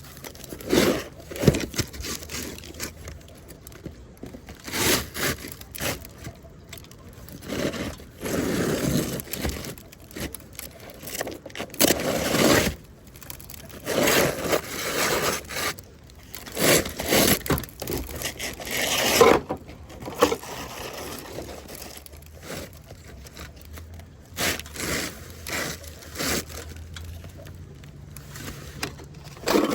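Irregular scraping and rustling from handling a bundle of asphalt shingles on a shingle roof, coming in uneven bursts a second or two apart.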